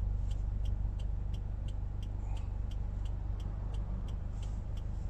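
Subaru WRX running with a steady low rumble, heard from the cabin, with a light ticking repeating evenly about two or three times a second.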